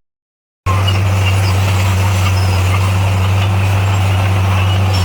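Heavy-equipment diesel engine running steadily with a constant low drone. It cuts in abruptly after a brief silence at the start.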